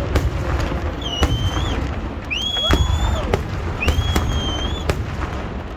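Fireworks going off in rapid, irregular bangs over a dense low rumble, with three high, steady whistles, each about a second long, sounding over them.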